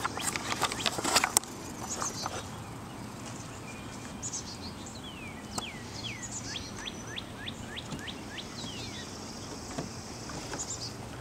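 Songbird singing: scattered slurred whistles, then a quick run of repeated sweeping notes past the middle. A burst of crackling clicks in the first second or so.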